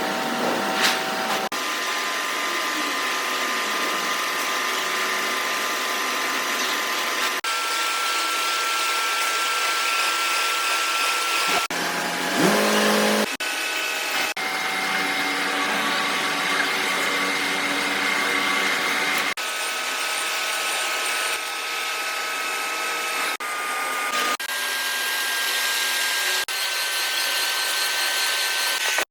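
Workshop power tools and machinery running on a large steel shaft, a steady whining hiss heard in a string of short clips that change every few seconds. About halfway through, a motor spins up with a rising whine.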